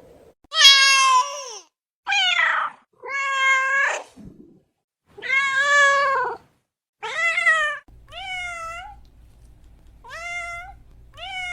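A domestic cat meowing over and over, about eight drawn-out meows roughly a second apart; the first few are loud and the last few are softer.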